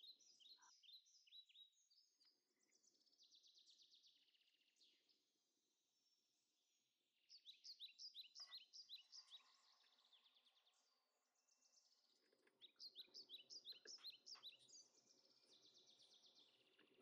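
Faint birdsong: phrases of rapid, high chirps repeated every few seconds, over a faint background hiss.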